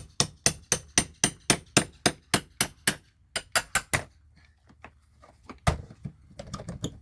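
Steel-handled hammer beating on a steel cat's paw nail puller to drive its claw under a nail head: rapid, even ringing metal strikes about four a second. After a short pause comes another quick run of strikes, then one hard blow a little before six seconds in and a few lighter knocks near the end.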